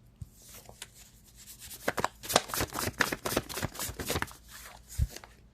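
A deck of cards being shuffled and handled: a quick run of crisp flicks and taps, busiest between about two and four seconds in.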